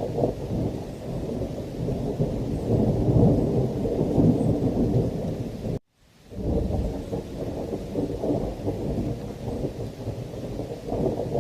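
Thunderstorm: a continuous deep rumble of rolling thunder over heavy rain. It cuts out to silence for a fraction of a second about halfway through, then picks up again.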